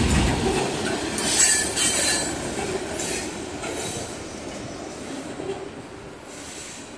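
Norfolk Southern freight train rolling past, its cars and wheels rumbling with bursts of high-pitched wheel screech. The sound fades steadily as the end of the train moves away.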